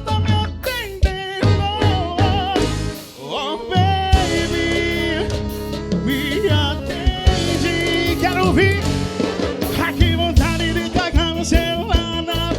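Live band music in an instrumental passage of a song: a drum beat under a wavering lead melody, with no sung words.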